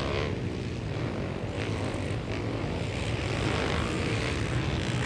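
Engines of a pack of flat-track racing quads droning steadily at a distance as they lap the dirt track.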